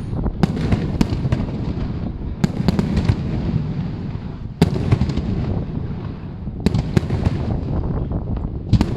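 A fireworks display: repeated sharp bangs of shells bursting, in clusters every two seconds or so, over a continuous rumble and crackle of more fireworks going off.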